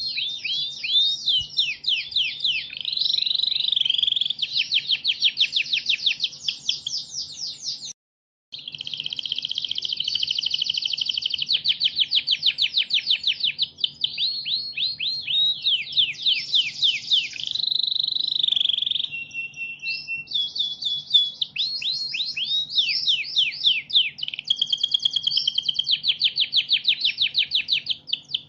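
Recorded songbird song used as a masteran for training cage birds: a dense, continuous run of rapid high chirps and fast sweeping trills. It cuts out completely for about half a second near 8 seconds in, then carries on.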